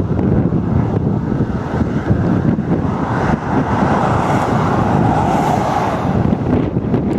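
Strong wind rumbling on the microphone, with a rushing noise that swells from about three seconds in and fades near the end.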